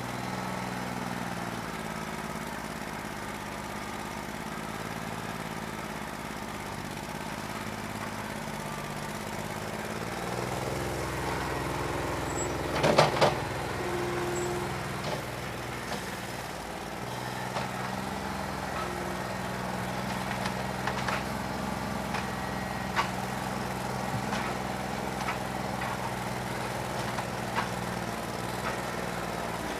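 New Holland 1320 compact tractor's diesel engine running, its pitch shifting between about ten and seventeen seconds in, with a loud clank about thirteen seconds in and scattered ticks later. The engine has a bad injector.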